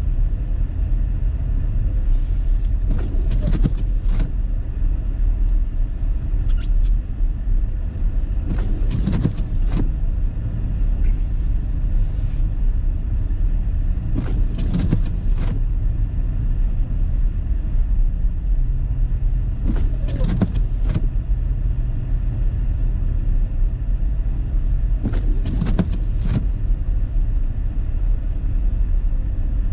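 Car driving through a snowstorm, heard from inside the cabin: a steady low rumble of engine and tyres on snow-covered road. Pairs of short sweeping or knocking sounds come back every five or six seconds.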